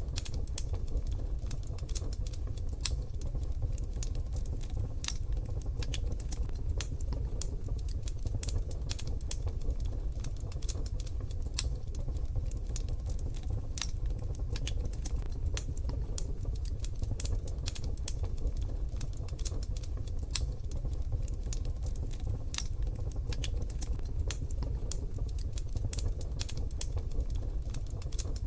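Wood fire crackling, with many irregular small snaps and pops over a steady low rumble.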